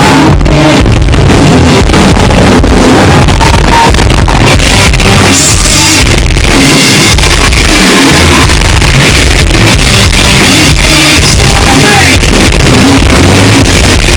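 Live metalcore band playing loud, with distorted electric guitars, bass and pounding drums, recorded close to the stage so the sound is overloaded and distorted.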